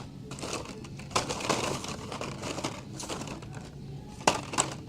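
Packaged toy cars being handled and shuffled: plastic and card crinkling, with a few sharp clacks, one about a second in and a pair near the end.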